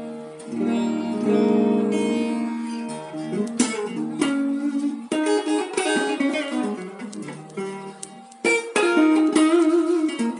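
Telecaster-style electric guitar with a carved top and G&B Korean pickups being played: chords ring out at first, then picked single notes and several sharp strums.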